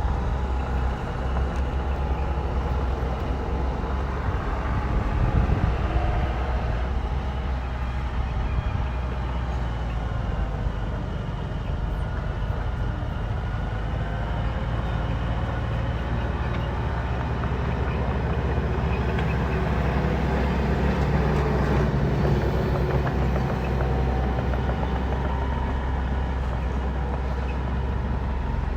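Bulldozer's diesel engine running steadily with a heavy low rumble, its pitch shifting a little as it works.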